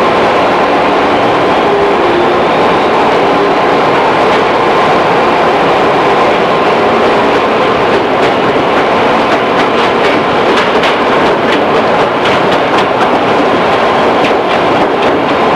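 Running sound inside a 211-series electric multiple unit's motor car: steady rolling and traction-motor noise, with a faint whine rising in pitch over the first few seconds. From about halfway, fast, irregular clicking of the wheels over rail joints.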